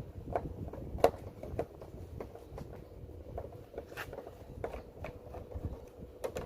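Scattered light clicks and taps of a screwdriver and hands working screws out of an air conditioner indoor unit's plastic chassis and coil mounting. The sharpest click comes about a second in.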